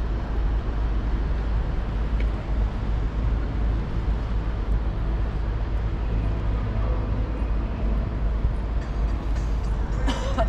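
Steady outdoor city background noise with a heavy low rumble.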